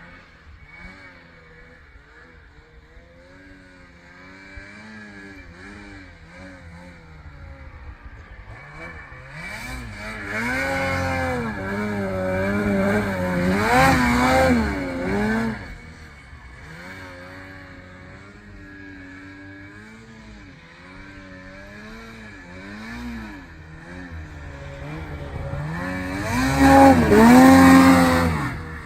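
Snowmobile engine revving up and down as the sled works through deep snow, its pitch rising and falling over and over. It grows loud twice, for a few seconds in the middle and again near the end.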